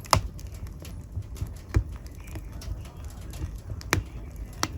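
Wood fire crackling in a fireplace: a low steady flame rumble with four sharp pops of burning wood, the loudest just after the start, one before two seconds, and two near the end.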